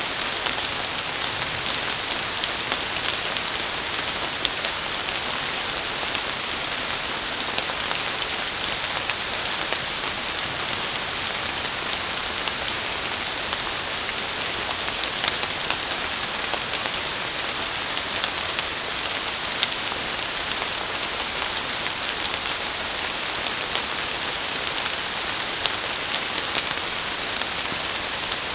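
Steady rain falling on forest leaves: an even hiss with many small, sharp drop ticks scattered through it.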